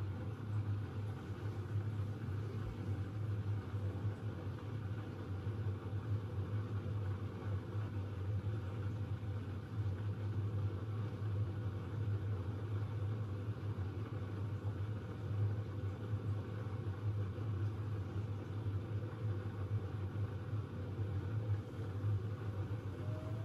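Siemens iQ700 WG56B2090 front-loading washing machine running with a steady low hum. A faint rising whine starts near the end.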